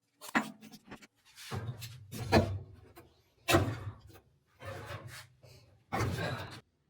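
About five short, separate bursts of woodworking noise on wood, each starting sharply; several carry a low hum like a small power tool's motor.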